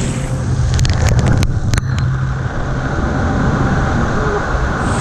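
Rushing water with a steady low rumble, muffled, with a handful of sharp clicks about one to two seconds in.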